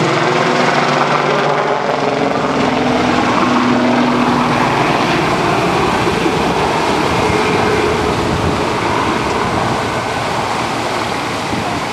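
Aircraft engine noise from a display aircraft: a steady drone with held tones in the first few seconds that give way to a rougher rushing sound.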